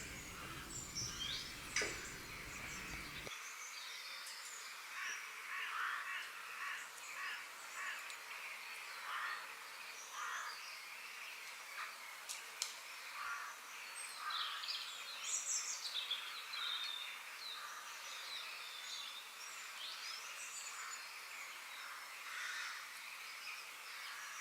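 Birds chirping and calling: many short chirps and quick whistles, coming and going throughout.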